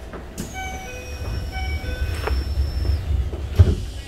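Inside a Keisei 3000 series commuter train car at departure time: a click, then a high whine that slides slightly lower and stops about three seconds in, with short electronic tones and a low rumble swelling underneath. A sharp clunk comes near the end.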